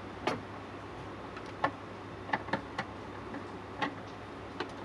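Scattered sharp clicks and taps at irregular intervals, over a steady low hum.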